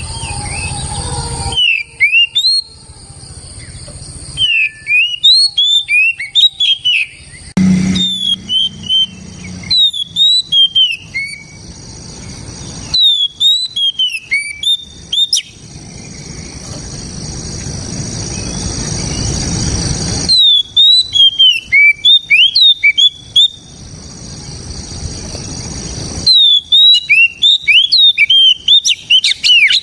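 Oriental magpie-robin (kacer) singing in loud phrases of quick whistled notes that sweep downward, each phrase lasting two to three seconds with short pauses between. A steady hiss fills the pauses.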